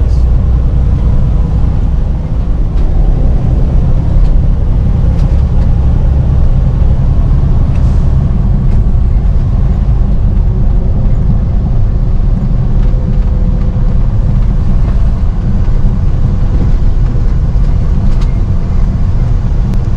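Semi-truck running on the road: a steady, loud low rumble of engine and road noise.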